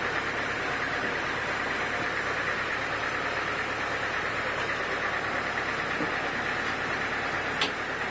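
Sawmill machinery running steadily with an even mechanical hum, and one short sharp click near the end.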